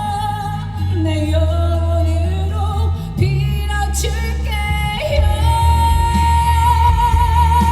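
Female lead vocalist singing live over a rock band with a steady bass line, ending on one long held high note from about five seconds in.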